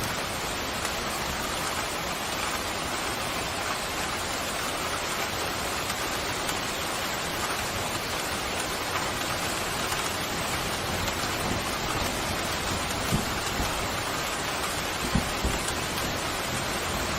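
Steady pouring rain, an even hiss, with a couple of brief low knocks in the second half.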